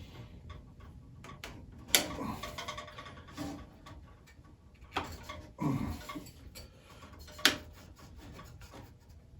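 Hands stretching a warmed urethane bandsaw tire onto the saw's lower wheel and working it into the rim slot: rubbing and scraping with scattered small ticks and two sharp clicks, one about two seconds in and one late on.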